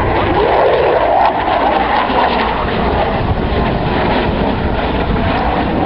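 Jet aircraft flying by at an air display: a loud, steady rushing engine noise.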